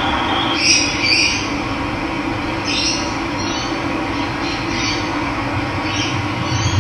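Running water rushing steadily, with birds giving short, high calls about once a second over it.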